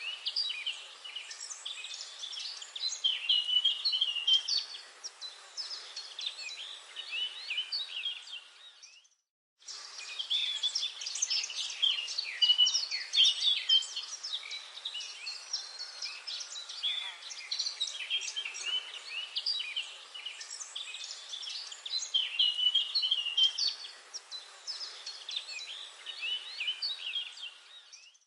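Forest ambience: many birds singing and chirping together over a steady hiss. The whole sound cuts out for about half a second around nine seconds in, then resumes.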